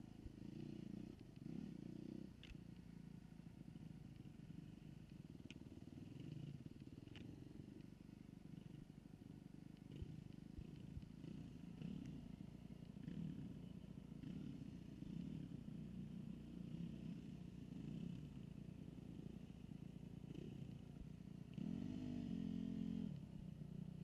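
Dirt bike engine running faint and muffled, its pitch rising and falling with the throttle, with a brief louder rev near the end.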